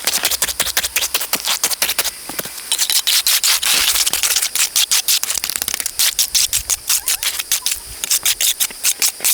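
Fast, rhythmic scraping strokes, about five or six a second, pausing briefly a little after two seconds in.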